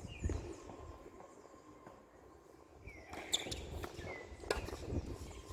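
Tennis play on court: footsteps and short shoe squeaks, with a few sharp knocks of the ball being struck or bouncing.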